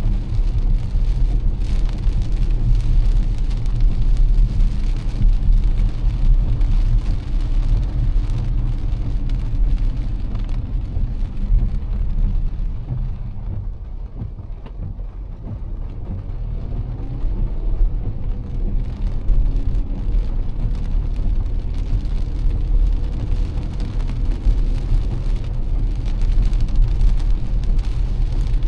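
Car driving on a rain-soaked road in heavy rain: a steady low rumble of road noise with the hiss of wet tyres and rain. It turns quieter and duller for a few seconds around the middle, then builds again.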